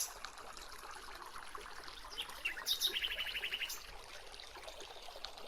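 A bird chirping, with a quick run of repeated high notes about halfway through, over a faint steady rush of flowing water.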